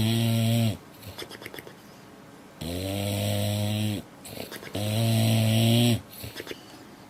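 Dog snoring in its sleep: three long, evenly pitched snores about two seconds apart, with short rattling breaths between them.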